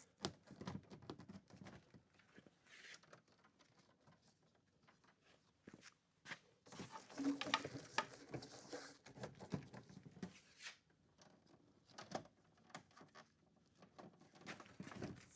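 Faint, irregular small clicks and rustling of electrical wires and hand tools being handled at inverter terminals, busier in the middle.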